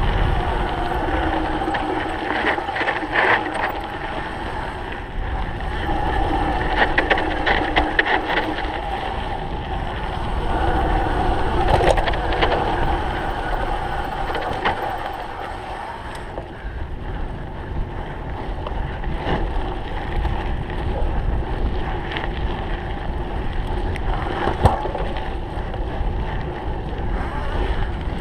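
Cyclocross bike ridden at race pace over rough ground: wind rushing over the microphone, with the rumble of tyres and scattered rattles and knocks from the bike.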